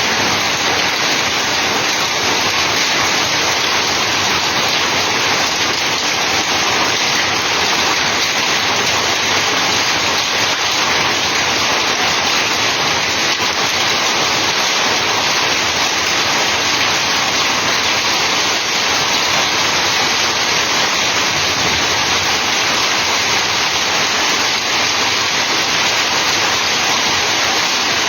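Heavy hailstorm: hail and rain pelting down in a dense, steady noise that does not let up.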